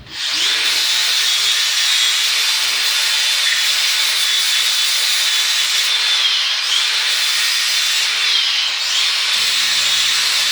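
Angle grinder with a flap disc starting up and grinding the steel face of an anvil: a loud, steady grinding whine that sags in pitch twice when the disc is pressed into the metal.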